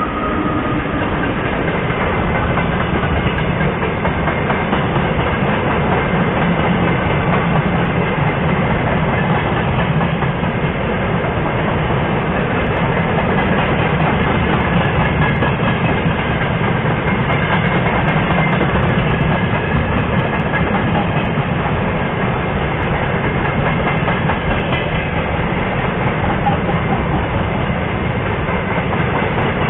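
Freight train of railway tank cars rolling past close by: a steady, loud rumble of steel wheels on the rails that keeps up without a break.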